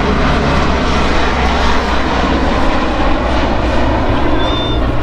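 Fixed-wing airplane engines running loud and steady, a display aircraft in flight.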